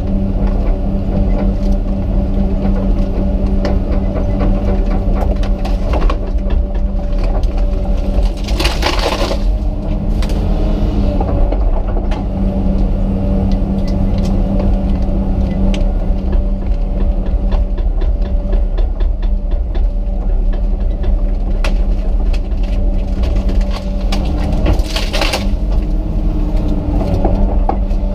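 Komatsu PC200 excavator's diesel engine running steadily under working load, with scattered clicks and knocks. Two short bursts of hissing come about 9 seconds and 25 seconds in.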